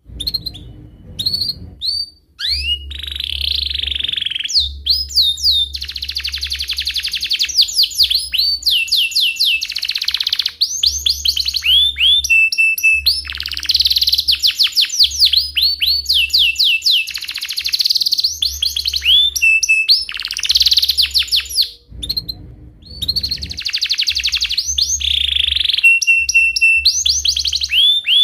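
Domestic canary singing a long, continuous song of rapid rolling trills and fast repeated chirps, with a short break about three-quarters of the way through.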